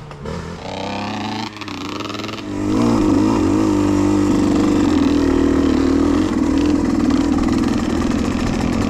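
A youth off-road dirt bike's engine revving up in a few rising sweeps, then running loud and steady at high revs from about three seconds in as the bike works along the trail.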